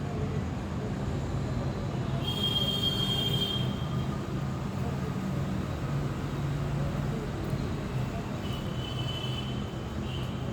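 Road vehicle running steadily in traffic, a continuous low hum. A high-pitched tone sounds for over a second about two seconds in, and a weaker one near the end.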